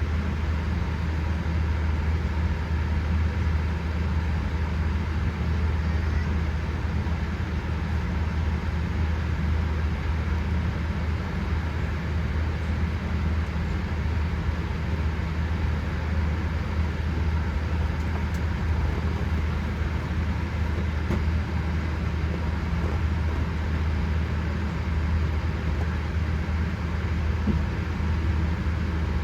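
Steady low hum and even rush of cabin noise inside a Boeing 787-8 Dreamliner on the ground, with no breaks or distinct events.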